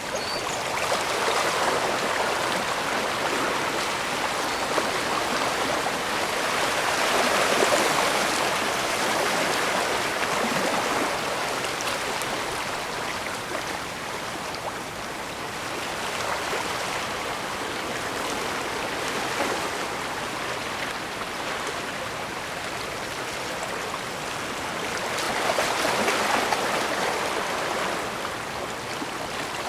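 Bay water washing against the shore as a steady rushing hiss, swelling louder about a second in, again around eight seconds in, and near the end.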